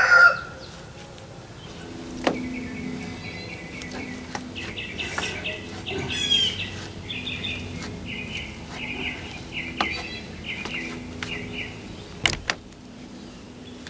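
A songbird chirping in quick runs of short repeated high notes, with a few sharp knocks between, the loudest near the end.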